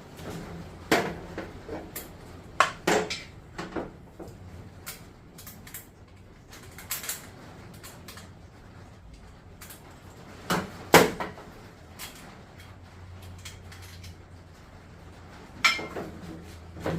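Scattered metallic clinks and knocks of tools and exercise-bike parts being handled, with the loudest knock about eleven seconds in.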